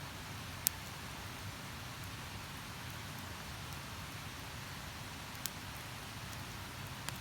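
Wood campfire burning: a steady hiss with a few sharp crackling pops, one early, one in the middle and one near the end.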